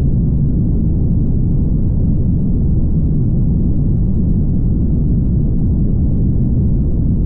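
Steady low rumble of a car driving at highway speed, tyre, road and engine noise, with no change in pitch or level.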